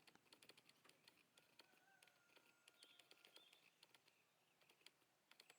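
Near silence: faint outdoor ambience with scattered soft ticks and a faint thin tone held for about two seconds in the middle.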